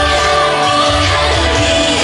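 K-pop song with female group vocals singing over a backing track with a strong bass line.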